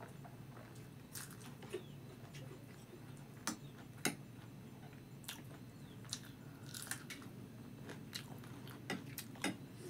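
A person chewing a mouthful of chow mein noodles close to the microphone, with soft wet mouth smacks and clicks scattered through. Two sharper clicks come about three and a half and four seconds in.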